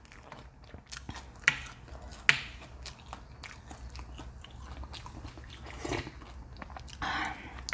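Close-up eating sounds: a person chewing food, with many small mouth clicks and two sharper clicks about a second and a half and two and a half seconds in.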